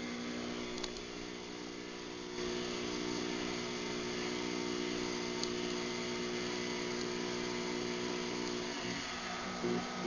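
Craftsman garage door opener motor running steadily through its closing cycle, a hum that steps up a little about two seconds in and wavers near the end.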